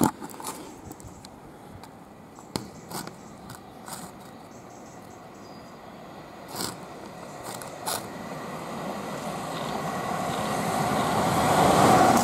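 A few sharp knocks and scrapes of the camera against a wire mesh fence, then an eight-car Class 450 electric multiple unit approaching along the line, its noise growing steadily louder over the last few seconds as it comes close.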